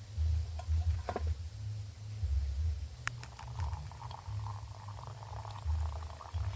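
Coffee boiling at full steam, a rapid bubbling that gets denser from about halfway through, over a low rumble.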